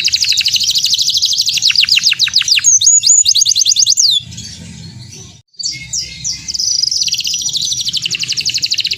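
Domestic canary singing: fast series of repeated downward-sweeping notes, a brief break about halfway, then a long, rapid rolling trill.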